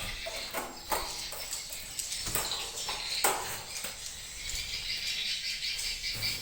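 Swiftlets chirping, with a few sharp clicks in the first half.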